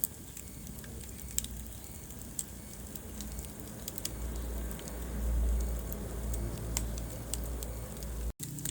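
Wood fire crackling in a fireplace: scattered sharp pops and snaps over a steady low rumble of burning. The sound cuts out for a moment near the end.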